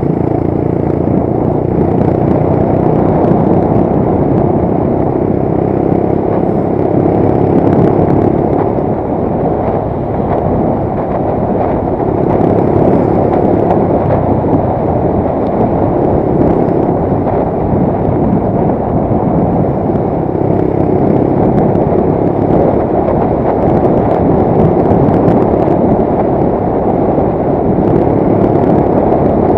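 Motorcycle engine running at a steady cruising speed, its note swelling and easing a little now and then, under a constant rush of road noise.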